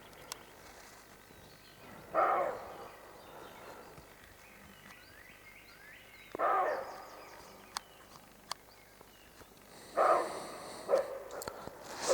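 Roe deer barking: short, loud, hoarse barks about four seconds apart, three evenly spaced and then quicker ones near the end.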